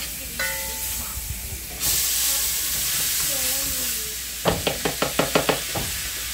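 Garlic and rice frying in very hot pork lard: a loud sizzle starts suddenly about two seconds in and fades, then a quick run of about nine knocks of a utensil against the pan as the rice is stirred.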